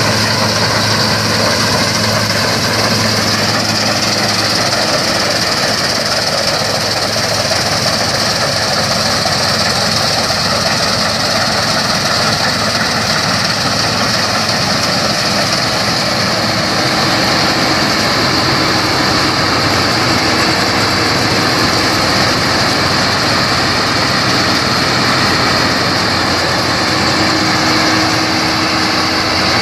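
New Holland TX34 combine harvester running steadily while harvesting barley: diesel engine and threshing machinery, with a steady high whine over the engine.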